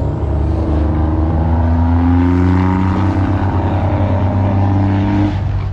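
A loud vehicle engine running with a steady deep drone, its pitch slowly sliding up and down as it is revved. The revving drops away about five seconds in.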